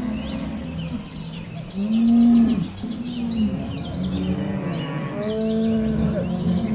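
Several cows mooing in long, low, overlapping calls, the loudest about two seconds in. Small birds chirp high above them.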